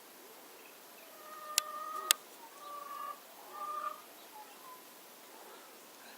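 Currawong calling: one drawn-out call lasting about a second, with two sharp clicks during it, followed by two shorter calls.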